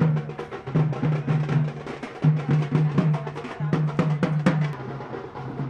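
Drums playing a fast rhythm of sharp strokes over a steady low tone.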